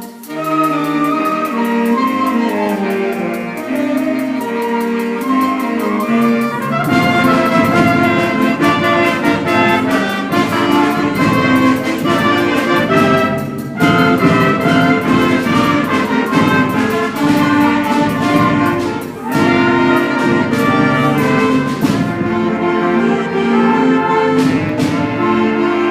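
School wind band playing a piece in concert: held chords from many wind instruments, and a fuller, deeper band sound coming in about seven seconds in, with brief breaks between phrases.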